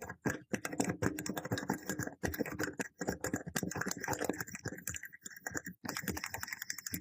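Restored 1850s pencil sharpener's mechanism being worked by hand: a fast, uneven run of small mechanical clicks and rattles, with a brief pause near the end.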